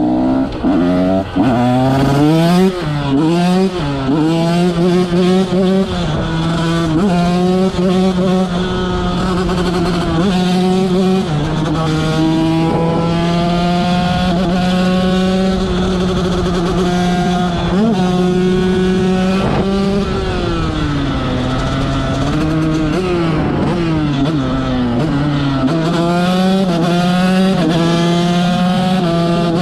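125 cc two-stroke motocross bike engine revving hard through the gears, its note climbing and dropping at each shift. It then holds high revs, eases off about 20 s in, and accelerates again.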